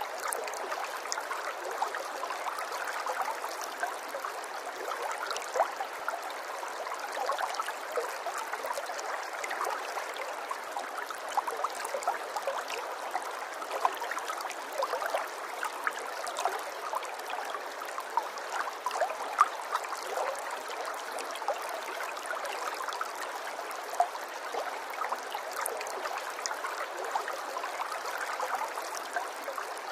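Running water flowing steadily like a small stream, with frequent small splashes and drips throughout.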